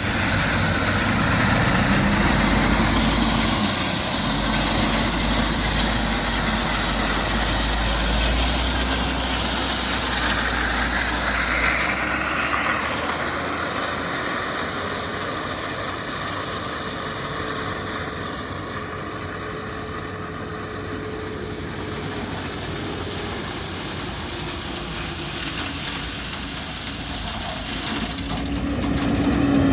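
Heavy diesel equipment engine running continuously, a strong low rumble for about the first dozen seconds that then eases. Near the end the engine note falls in pitch.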